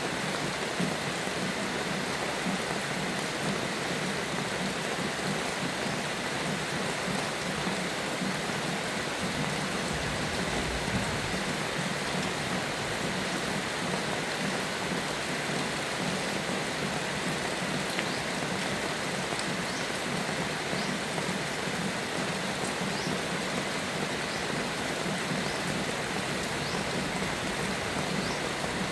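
Steady heavy rain falling, with a brief low rumble of thunder about ten seconds in. Short high bird chirps come and go in the second half.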